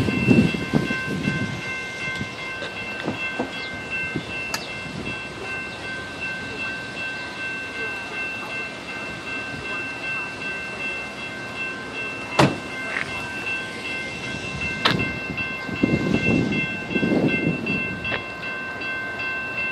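Train at a blocked rail crossing, with a steady high-pitched ringing of several tones throughout. Two sharp metallic clanks come about 12 and 15 seconds in, and a low rumble swells near the end.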